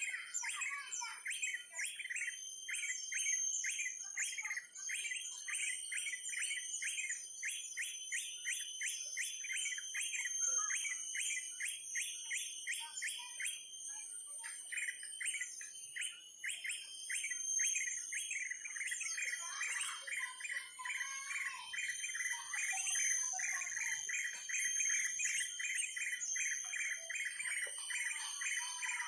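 Bird chirping in a fast, unbroken run of short chirps, about four a second, with a steady high-pitched whine above it.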